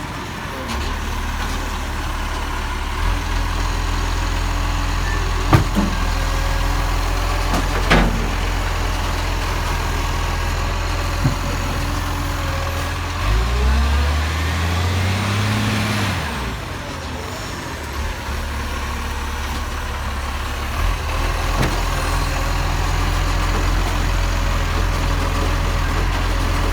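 Garbage truck engine running steadily, with a few sharp knocks. About halfway through, the engine revs up in a rising pitch for a couple of seconds, then settles back.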